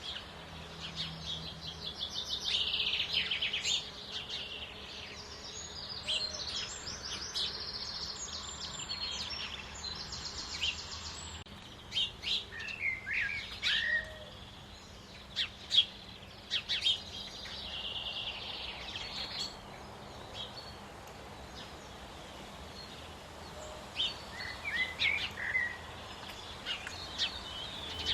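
Wild songbirds singing and calling, with rapid high trilled phrases and short chirps that come in bursts.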